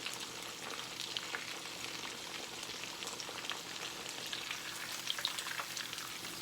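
Breaded chicken breast frying in hot oil: a steady sizzle with many small, irregular pops and crackles.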